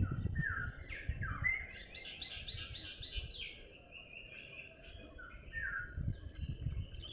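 Small birds chirping, with short falling notes and a quick run of repeated notes about two to three seconds in, over an uneven low rumble.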